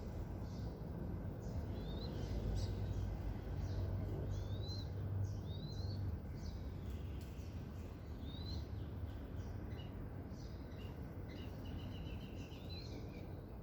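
Wild birds chirping and calling, with short upward-slurred notes and a quick run of repeated notes near the end, over a steady low rumble of outdoor background noise.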